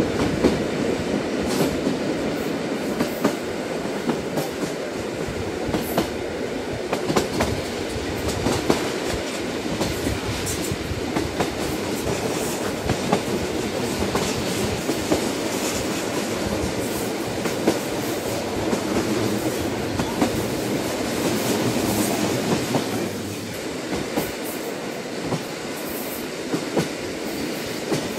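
Train running on the rails: a steady rumble of wheels and carriage with irregular clicks as the wheels pass over rail joints. The rumble eases slightly a little after two-thirds of the way through.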